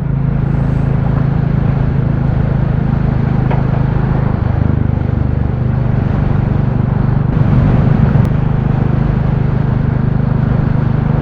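Royal Enfield Classic 350's single-cylinder engine running steadily as the bike is ridden, its note shifting slightly about four seconds in.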